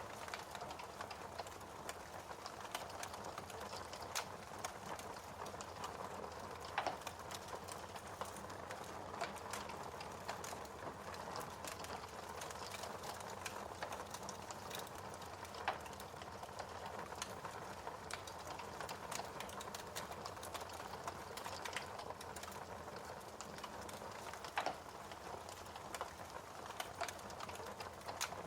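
Fire in a fireplace crackling: a steady soft hiss with frequent small ticks and pops, and three louder snaps spaced about nine seconds apart.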